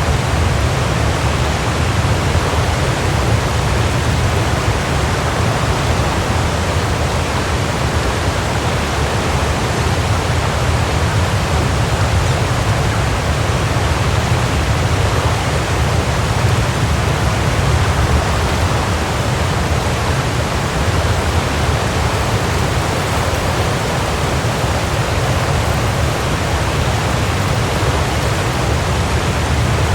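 Waterfall pouring: a steady, dense rush of falling water with a strong deep rumble beneath it.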